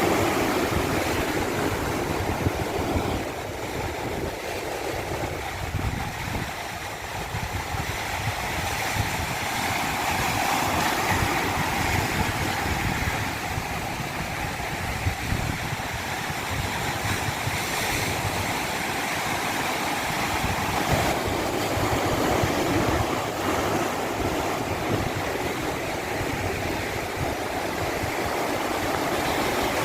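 Continuous rushing water, natural stream or surf, an even wash that swells and eases slowly over several seconds.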